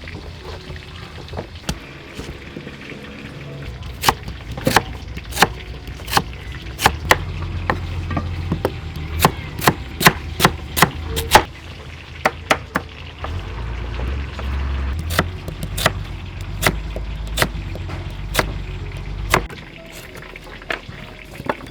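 A knife chopping on a wooden cutting board in quick, irregular strokes, several a second at times, thinning out near the end. A low steady rumble sits underneath and stops a couple of seconds before the end.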